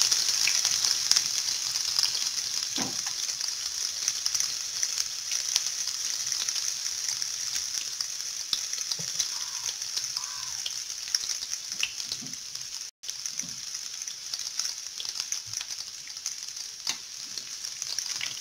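Chopped onion frying in hot mustard oil in a nonstick pan: a steady sizzle with scattered crackles. It is stirred with a spatula near the end, and the sound cuts out for an instant about two-thirds of the way through.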